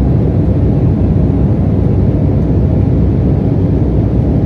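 Steady, loud, low-pitched airplane cabin noise heard from inside an aircraft in flight, with no changes or distinct events.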